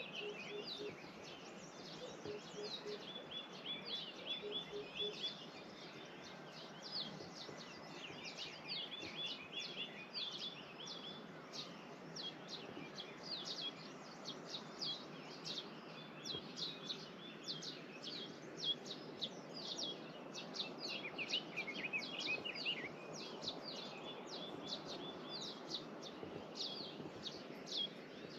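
Several small birds chirping and twittering continuously, many short quick calls overlapping one another, over a faint steady outdoor hiss. A few soft low notes sound in the first few seconds.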